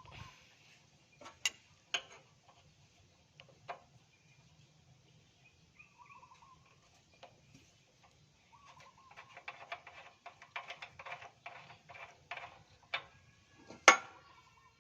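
Small metal engine parts and hand tools handled while a carburetor is taken apart for cleaning: scattered sharp clicks, a busier run of clicking and scraping about two-thirds of the way through, and one loud click near the end.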